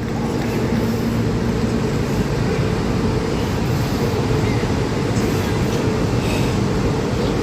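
Los Angeles Metro Red Line subway train pulling into the station: a steady rumble of wheels on rail with a constant hum from the train, getting a little louder just as it begins.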